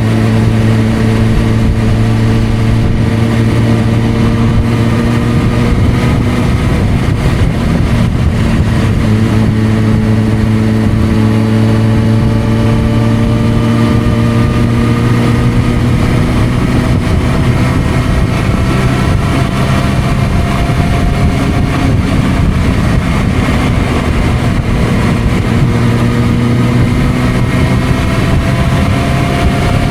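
Suzuki GSR600's inline-four engine running through an aftermarket Dominator exhaust, a strong steady low note with a higher tone slowly rising over the stretch.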